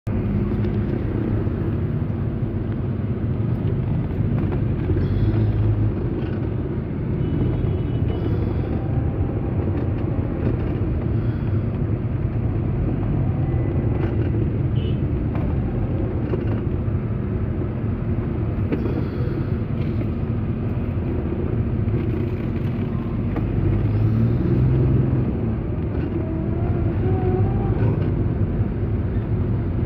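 Dense road traffic: the steady low hum of many car and motorcycle engines and tyres, with a few short high beeps about eight seconds in.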